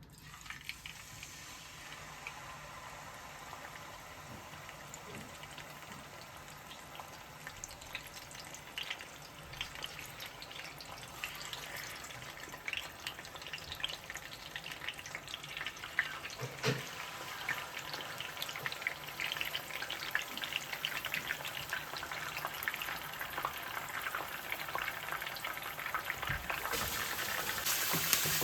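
Food frying in a pan, a steady sizzle with dense small crackles that grows gradually louder as it goes and strengthens near the end.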